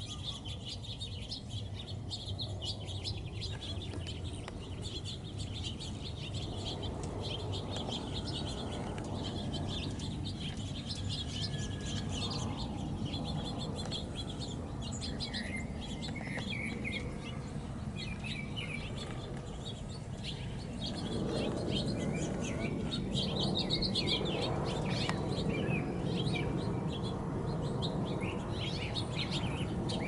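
Small birds chirping and tweeting, many short high calls overlapping throughout. A low steady background noise swells about two-thirds of the way through.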